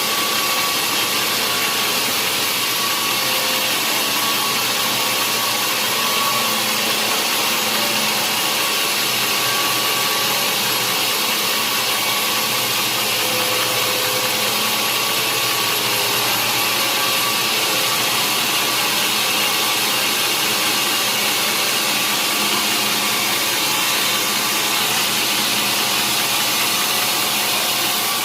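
Sawmill machinery running steadily: a loud, even mechanical noise that doesn't change, with a faint steady whine.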